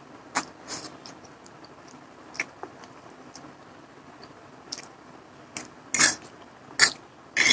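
Close-miked eating of instant noodles: scattered short, wet mouth smacks and slurps, a few seconds apart, with longer, louder ones near the end.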